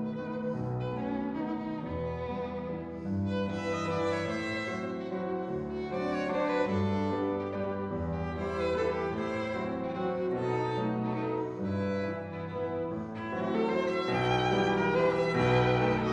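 Background music of bowed strings, a violin melody over lower cello-like notes, slow and sustained, swelling louder near the end.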